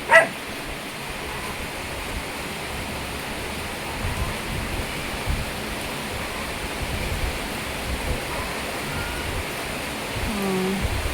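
Steady hiss of rain and rushing runoff water, even and unbroken. A short pitched voice-like sound comes right at the start and again near the end.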